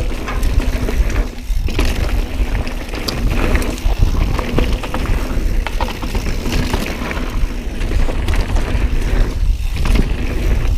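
Mountain bike riding over rough, rocky trail: a steady rumble of wind on the camera microphone, with the tyres and frame rattling in frequent short, sharp knocks.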